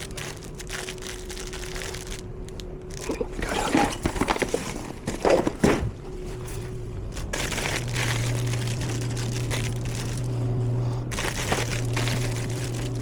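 Crinkly plastic snack wrappers rustling and clicking as packs are handled and loaded into a snack vending machine, the busiest handling a little past the middle, with a steady low hum taking over in the second half.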